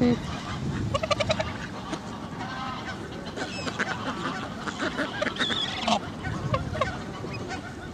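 A flock of waterfowl calling: geese honking among other ducks and birds, many short overlapping calls, with a quick run of honks about a second in.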